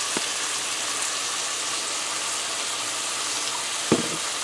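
Diced squash and chicken sizzling steadily in hot oil and curry paste in a pot, with a single short knock near the end.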